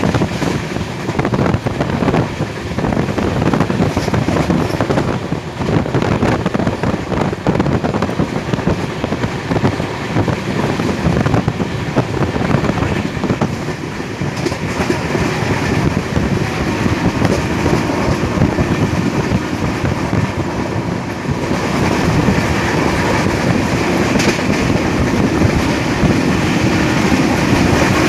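Moving passenger train heard from on board: wheels running and clattering over the rail joints, steady and loud, the noise growing brighter and a little louder about three quarters of the way through.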